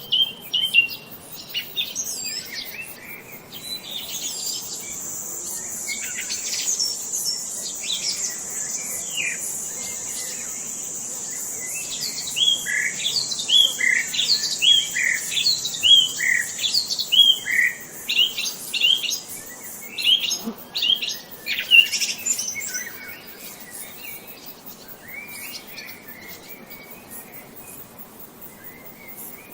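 Several songbirds chirping and singing, with one bird repeating a quick down-slurred note about twice a second for several seconds midway. A thin, steady, high-pitched buzz runs underneath for much of the time, then stops, and the birdsong thins out toward the end.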